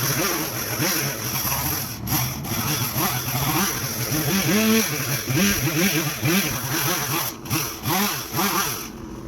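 Two-stroke chainsaw engine revving up and down over and over, its pitch rising and falling about once or twice a second as the throttle is worked through cuts. It drops away briefly just before the end.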